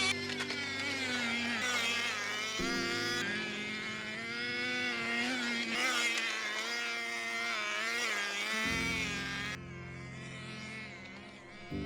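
Small nitro glow engine of an RC touring car (O.S. MAX CZ12) buzzing at high revs, its pitch rising and falling repeatedly as the car accelerates and brakes. The sound changes abruptly a few times and is quieter near the end.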